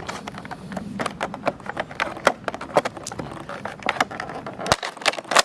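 Packaging being handled and opened by hand: irregular clicks, crackles and rustles, with a sharper crack near the end.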